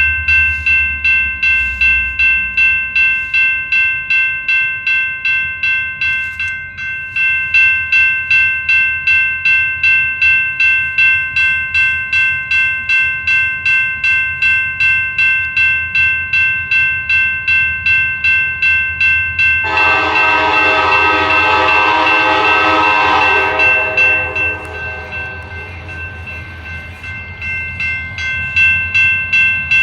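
A railroad bell clangs steadily at about two strokes a second. About two-thirds of the way in, a diesel locomotive horn sounds one long blast of about four seconds, then the bell carries on.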